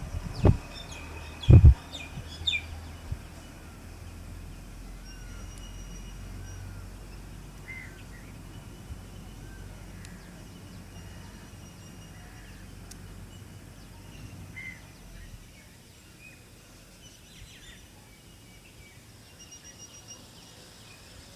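Several songbirds chirping and calling at scattered intervals over a low background rumble. Two loud thumps come within the first two seconds, followed by a couple of fainter knocks.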